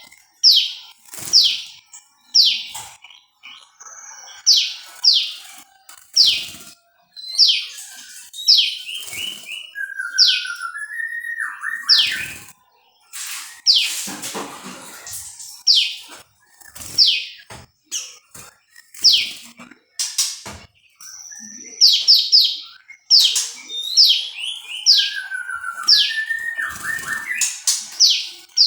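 Prenjak lumut (a small Indonesian songbird) calling close by: loud, sharp, high chirps that slur downward, repeated about once a second. A lower, stuttering, stepped phrase comes twice, about ten seconds in and again near the end.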